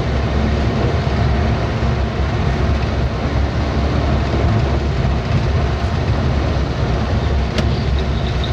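Truck engine and road noise heard from inside the cab while driving: a steady low rumble that does not rise or fall, with a single faint click near the end.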